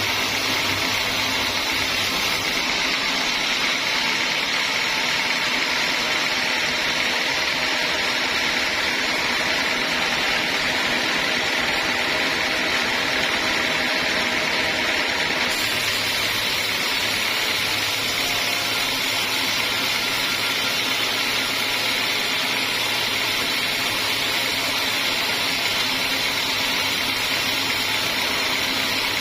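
Homemade band sawmill running steadily: a continuous, even machine noise with no pauses.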